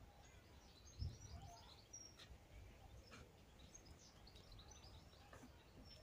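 Faint songbirds chirping in the scrub: many short, high chirps scattered throughout. A soft low thump about a second in.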